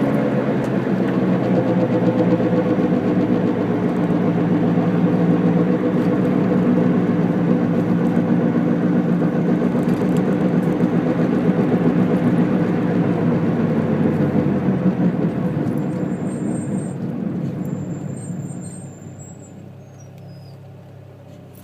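Honda Integra DC2 driving with a rhythmic 'go, go, go' rumble from a worn wheel hub bearing under the road noise; the car slows down and the noise fades over the last few seconds.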